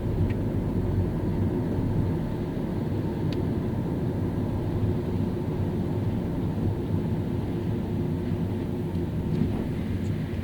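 Car driving on a rain-wet road: a steady low road and engine drone with tyre noise from the wet surface, plus a few faint ticks.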